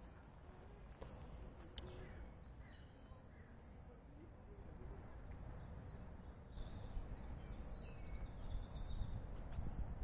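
Small songbirds chirping and singing in quick runs of short high notes, over a low outdoor rumble that grows louder in the second half.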